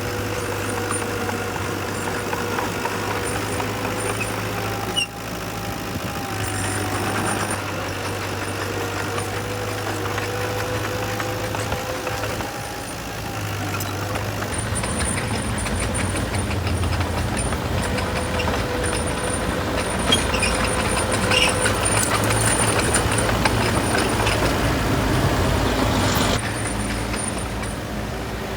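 Heavy diesel engines of earthmoving machinery running steadily, getting louder about halfway through.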